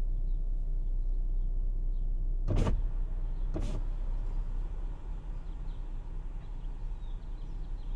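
A car's engine idling while stopped at a red light, a steady low rumble heard from inside the cabin. Two short hiss-like sounds come about two and a half and three and a half seconds in.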